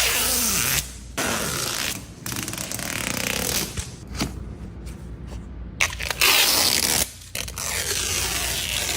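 Protective plastic wrapping being peeled and ripped off a new car, in a series of long tearing, rustling strokes with short pauses between them.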